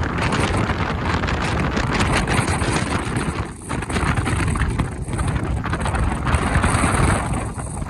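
Blizzard wind gusting across the microphone: heavy, uneven rumbling noise that dips briefly about three and a half, five and seven and a half seconds in.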